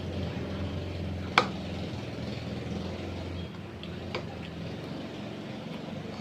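Steady engine-like motor hum, with one loud sharp click about a second and a half in and a few fainter clicks around four seconds.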